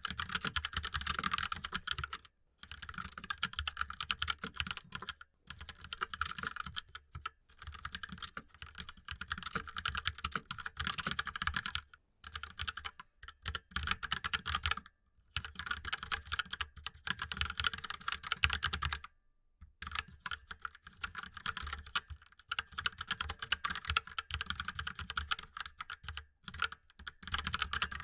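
Fast typing on a mechanical keyboard, a dense clatter of key clicks in runs of a few seconds broken by short pauses.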